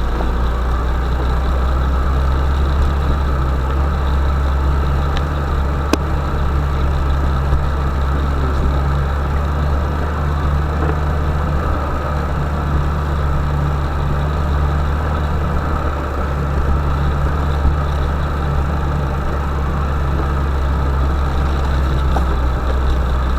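Vehicle engine running steadily with a deep, even drone, with no change in revs.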